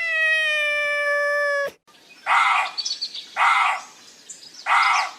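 Animal calls: one long pitched call, sinking slightly in pitch, that breaks off abruptly, then three short harsh bird calls about a second apart with faint high chirping between them.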